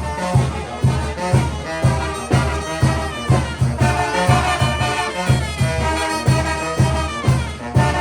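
Brass band music playing with a steady beat, trumpets and trombones over a pulsing low bass.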